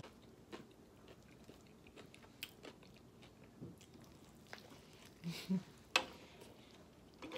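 A person biting into and chewing a burger close to the microphone: soft, wet mouth clicks and smacks, two short hums about five seconds in, and a sharper smack just before six seconds.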